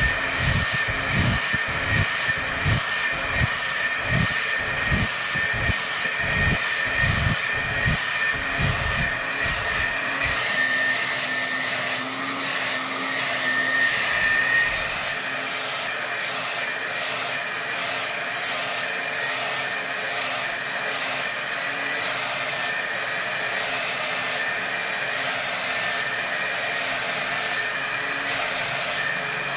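Hair dryer blowing at full power: a steady rush of air with a high motor whine. For about the first ten seconds a low pulsing throb comes roughly twice a second, then the sound settles to an even blow.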